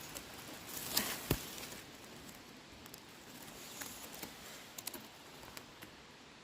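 Faint rustling and handling on the forest floor while mushrooms are being picked, with a few small clicks and snaps: a cluster about a second in, and a scatter of ticks near five seconds.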